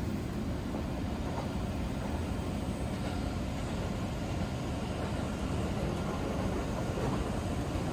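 Seibu electric train running steadily, heard from inside the passenger car: an even, low rumble.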